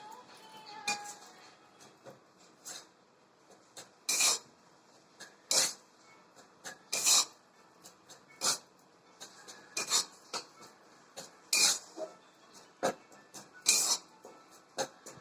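Spatula scraping against a pan while stirring gram flour, in short rasping strokes roughly every one to two seconds.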